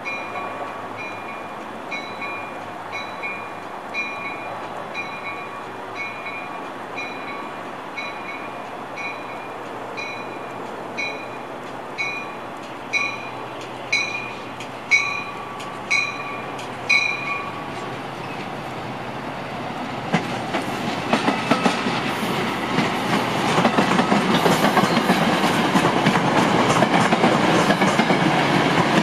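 A warning bell dings about once a second, growing louder and then stopping about two-thirds of the way through. Then a Metra commuter train of bilevel gallery cars pulls in, the noise of its wheels swelling with rhythmic clacking over the rail joints.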